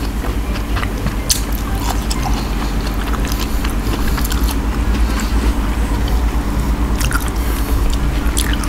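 Close-miked, wet chewing and biting of fresh fruit pieces coated in a thick cashew-peanut rujak sauce, with many short mouth clicks and smacks.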